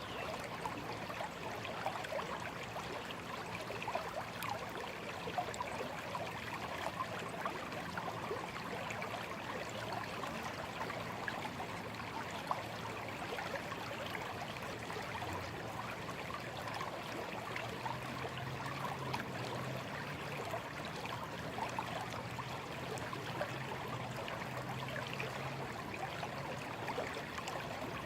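Shallow stream babbling and trickling steadily over stones, a dense even rush of small splashes and gurgles. A faint low hum sits underneath, a little stronger about two-thirds of the way through.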